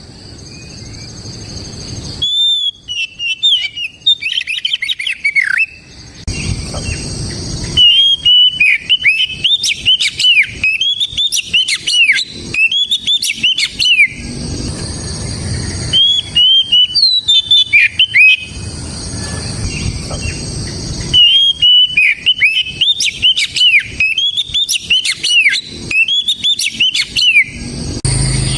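Oriental magpie-robin singing a loud, full song: phrases of clear whistles and quick chattering notes, each a few seconds long, with short pauses between them.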